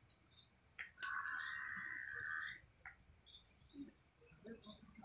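Small birds chirping over and over in the background. About a second in comes a steady rasping hiss lasting about a second and a half, the loudest sound here, with a few faint clicks around it.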